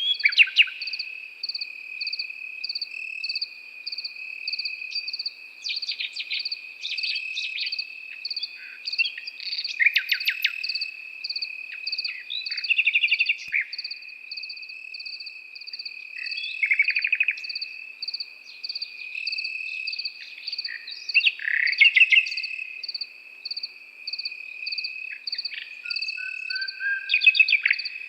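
A nightingale singing phrase after phrase of rapid repeated notes and trills, every few seconds, over crickets chirping steadily about twice a second and a continuous high insect trill beneath.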